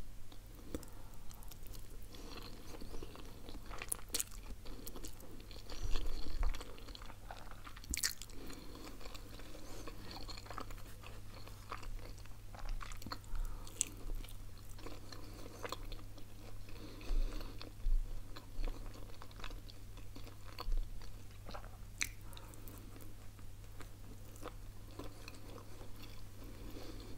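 Close-miked eating: chewing, mouth clicks and crunchy bites as a person eats spaghetti carbonara and bites into ham-and-cheese pizza with its crust, over a faint steady low hum.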